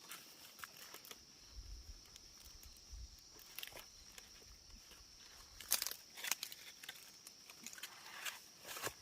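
Faint outdoor rural ambience: a steady high-pitched insect drone, with scattered rustling and crackling clicks, a few louder ones a little past the middle.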